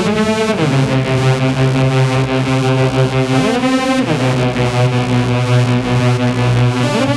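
Electronic dance music from a DJ set: a sustained synthesizer chord whose pitch slides down just after the start, rises and falls again around the middle, and climbs near the end, over a held low bass note.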